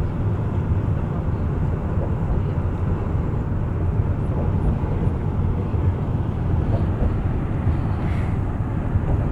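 Steady low rumble of a bus on the move, engine and tyre noise heard from inside the cabin.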